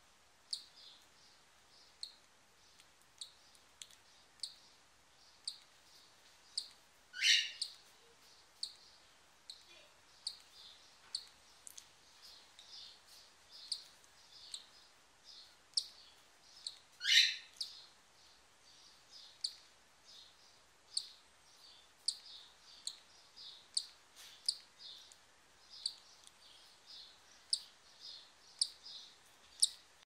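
Birds chirping: short, high chirps repeating about once or twice a second, with two louder calls about seven and seventeen seconds in.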